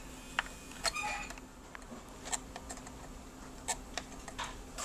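Needle-nose pliers working a small nut loose, giving a handful of light, scattered metallic clicks and scrapes.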